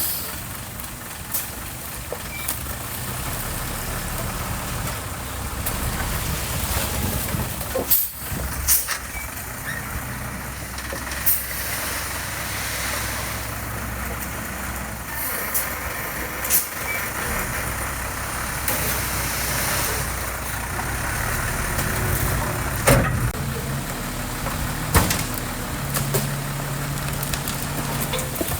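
Diesel construction machinery running steadily, with sharp metallic clanks and knocks every few seconds.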